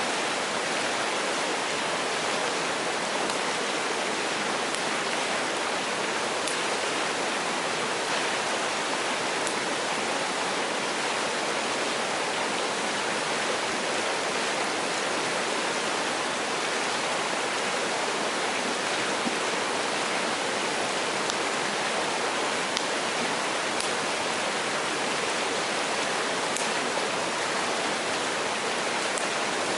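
Mountain stream rushing steadily, with a few faint crackles from a wood campfire.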